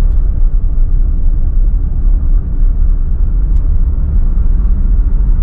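Car driving, heard from inside the cabin: a loud, steady low rumble of engine and road noise.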